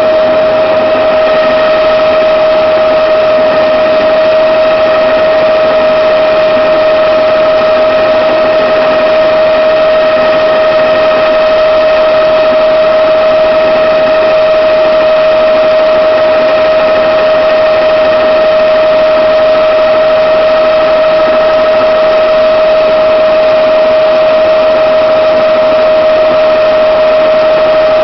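Helicopter in steady flight, heard from on board: a constant high whine over a steady rushing drone, with no change in pitch or level.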